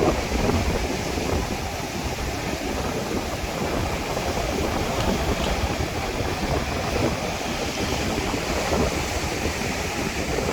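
Strong wind blowing across the microphone, a steady low rumbling noise that swells a little and eases without stopping.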